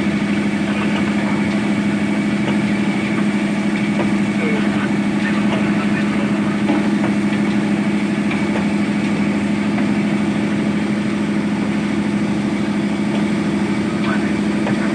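Heavy diesel engine running at a steady speed with a constant low hum that does not change.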